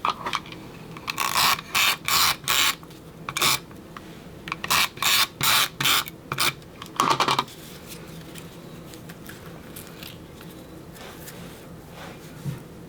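Paper-crafting handling sounds: about a dozen short, raspy strokes in quick succession over roughly six seconds as paper border strips are worked onto a layout, then only a faint steady room hum.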